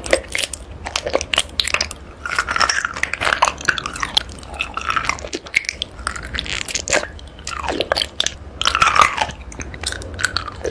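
Close-miked biting and chewing of raw honeycomb: the wax comb crunching and crackling in the mouth, a dense run of crisp clicks.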